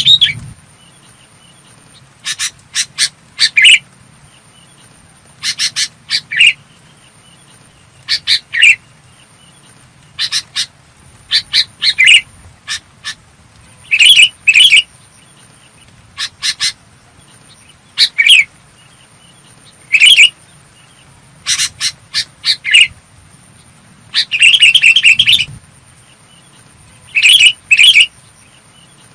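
Sooty-headed bulbul singing in clear, short phrases of quick chirping notes, repeated every second or two.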